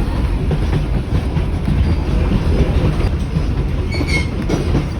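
Heritage passenger train running along the track, heard from aboard a 1920s Evans wooden carriage: a steady rumble of wheels and carriage with clickety-clack over the rail joints, and a brief high squeal about four seconds in.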